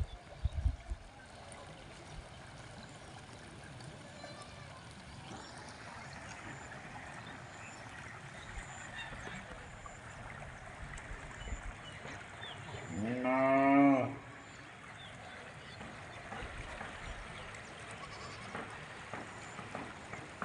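A single wavering bleat from a farm animal, about a second long and rising in pitch, over a faint steady background hiss.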